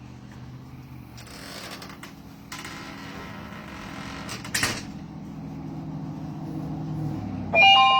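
A door being handled: creaking and sliding noise, a sharp knock a little past halfway, over a steady low hum. Near the end a loud, bright ringing tone with several pitches starts and carries on.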